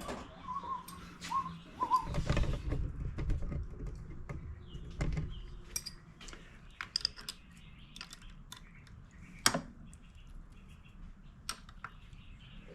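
Light metallic clicking and clinking of hand tools and nuts being worked onto a stud in a generator frame, locking two nuts together to back it out, with a couple of sharper clicks later on. A man whistles a few short notes in the first second or so.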